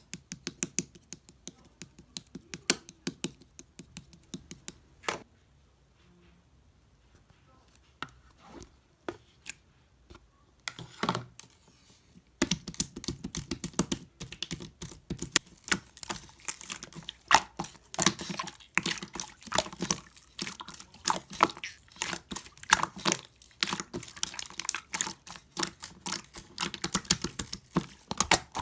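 Slime being squeezed and pressed by hand, making rapid small clicking pops as trapped air bursts. The clicks come in scattered runs at first, nearly stop for several seconds, then run dense and continuous from about halfway through.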